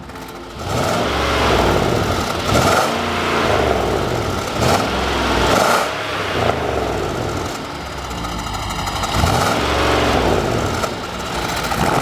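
Hyundai Equus VS500's V8 with a tuned valved exhaust, revved repeatedly so the exhaust note rises and falls several times with short drops back toward idle.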